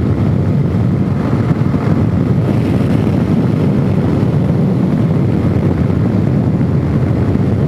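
Suzuki DRZ400S's single-cylinder four-stroke engine running steadily under way through a Powercore slip-on muffler on the stock header, with wind noise over the microphone.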